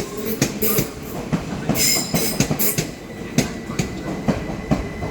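Train wheels rolling slowly over rail joints and pointwork, giving a string of irregular sharp clicks, with a brief high wheel squeal about two seconds in.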